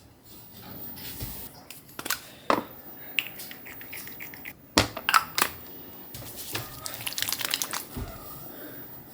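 Close handling sounds: crinkling and crumpling of a wrapper or packaging, with scattered sharp clicks and taps and a quick run of crackles near the end.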